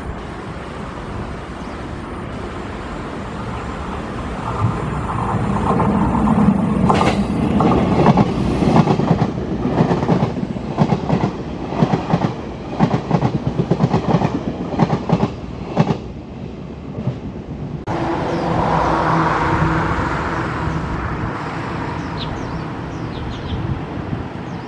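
A passenger train passing through a station, its wheels clattering over the rail joints in a quick run of clicks. About three quarters of the way in, the sound changes abruptly to a steadier train running with a low hum.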